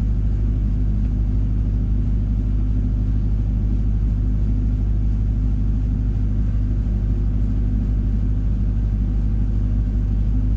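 Steady low rumble of a paddle boat's engine running while the boat is underway, even and unbroken.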